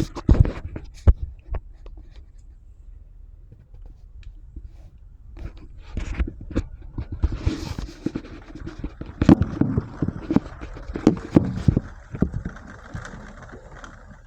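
Strong storm wind gusting hard against the microphone: low buffeting thumps over a rushing noise that grows heavier about six seconds in.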